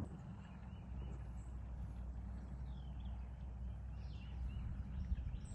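Birds chirping in a few short, faint calls over a steady low rumble.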